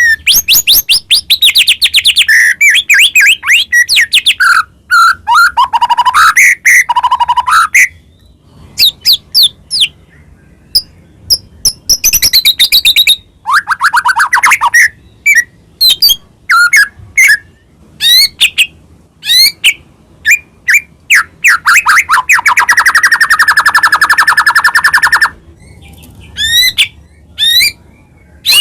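White-rumped shama (murai batu) singing loudly. Its song is a varied run of fast trilled phrases, sweeping whistles and rapid chatter, broken by brief pauses, with a long unbroken trill near the end.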